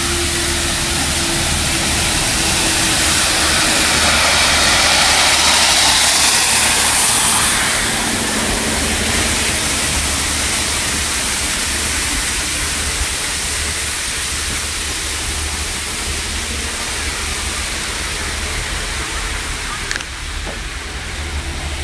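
Network Rail railhead cleaning train passing at close range: a steady low engine drone under a loud hiss. The hiss is strongest for the first several seconds, then eases as the train clears the crossing, with a short click near the end.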